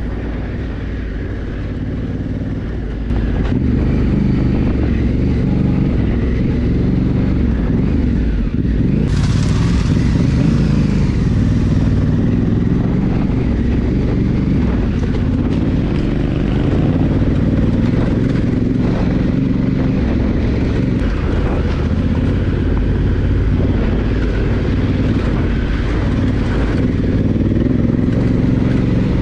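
Honda Africa Twin adventure motorcycle's engine running steadily as it is ridden, with wind and road noise. It gets louder about three seconds in, and a brief hiss comes in around nine seconds.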